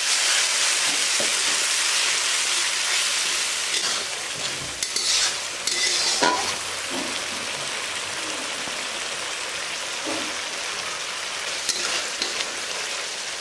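Spice paste frying in hot oil in a pan, sizzling hard just after a little water has gone in and then settling to a quieter sizzle about four seconds in. A few knocks against the pan from stirring come around the middle, one of them ringing briefly.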